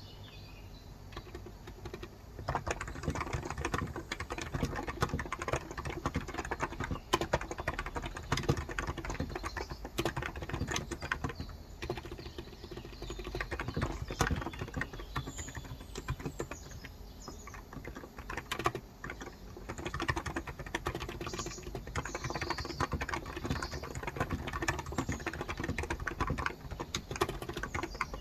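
Fast, continuous typing on a Cox Endeavour electro-capacitive (Topre-style) keyboard with light 35 g switches, the keystrokes coming in irregular runs with a brief lull near the start. Faint birds chirp in the background now and then.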